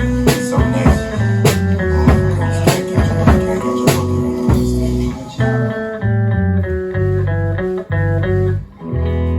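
Live rock band playing an instrumental passage on guitars, bass and drum kit. The drums stop about halfway through while the guitar and bass go on, and the passage ends on a held chord near the end.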